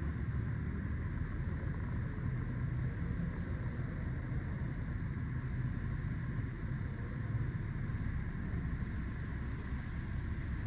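A car engine idling steadily, a low even rumble with no change in pitch or level.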